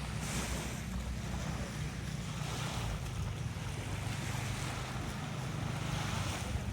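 Sea waves washing onto the beach, the hiss swelling every second or two, with wind rumbling on the microphone.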